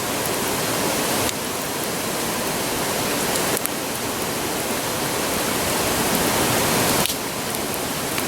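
Steady rushing roar of a river, with a few faint small crackles from a wood campfire. The level shifts abruptly a few times.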